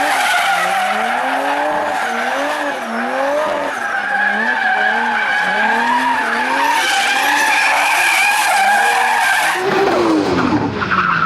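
Toyota Supra Mk4's 2JZ inline-six drifting: the engine revs rise and fall again and again as the throttle is worked, over a steady squeal of sliding tyres. Near the end the sound changes suddenly to an engine revving down and then back up.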